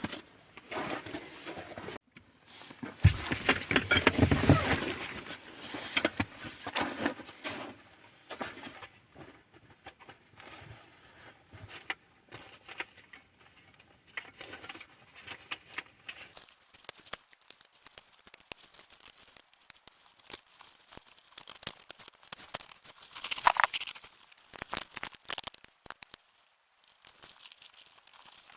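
Packaging being handled and torn open: crinkling and tearing of wrapping, with scattered small clicks and taps, loudest about three to five seconds in.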